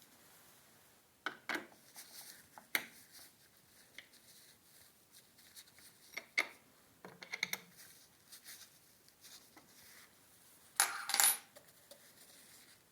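Scattered light clicks and clinks of small hard parts being handled and set down, with a louder cluster of clinks about eleven seconds in.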